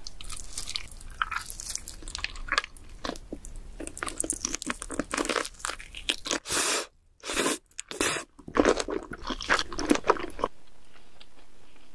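A person biting and chewing crunchy chicken close to the microphone: a dense run of crisp crunches with a short break about seven seconds in, stopping about ten and a half seconds in.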